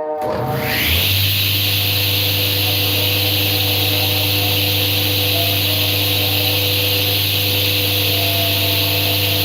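An electric woodworking machine starting up. Its motor spins up with a rising whine in about a second, then runs steadily with a strong hum and a hiss.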